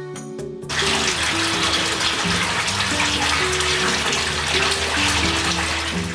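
Hot-spring water pouring steadily into a bath, a dense rushing splash that cuts in abruptly about a second in and eases near the end, over soft background music.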